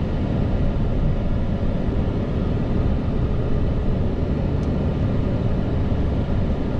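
Steady low rumble of a vehicle being driven: engine and road noise.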